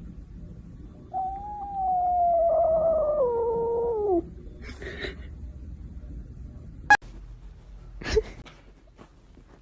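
A pet animal gives one long, wailing call of about three seconds that slides slowly down in pitch and drops off at the end. It is followed by a brief rustle and two sharp knocks.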